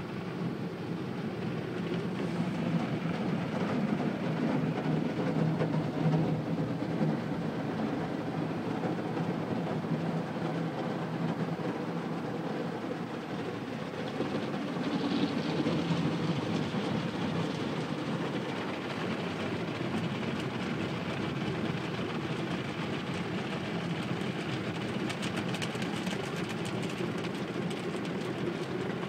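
Automatic car wash running over a car: a steady, dense rumble of water spray and machinery.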